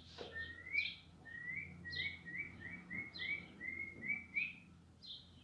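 Birds chirping: a short high call repeating about once a second, with a quick run of about a dozen lower, slightly rising chirps through the middle.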